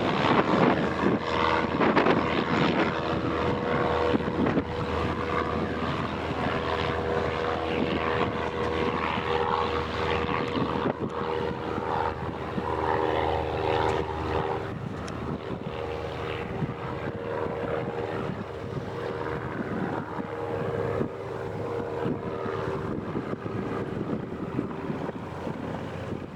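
Aircraft engine noise holding a steady hum of several tones, easing off slightly toward the end, with wind rumbling on the microphone.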